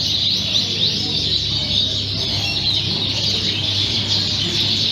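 Many Fife canaries singing at once, a dense chorus of overlapping fast chirps and trills, over a low steady background murmur.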